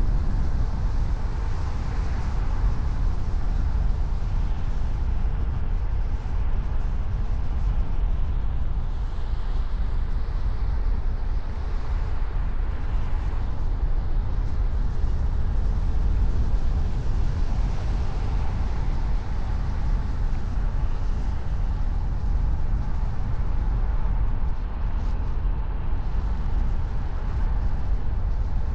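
Steady road noise of a car driving, a continuous low rumble with no change in pace.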